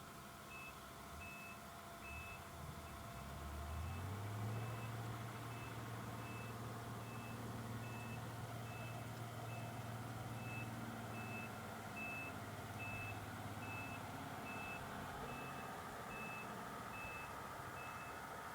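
Snowplow truck backing up: its reversing alarm beeps steadily, about one and a half beeps a second. Its engine revs up about four seconds in and holds there while it moves.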